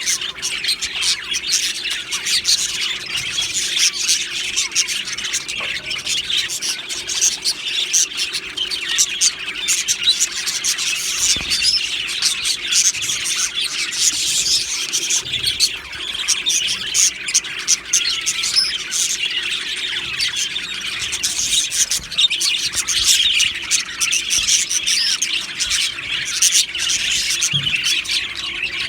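A flock of budgerigars chattering and chirping continuously, many birds calling over one another in a dense, unbroken warble.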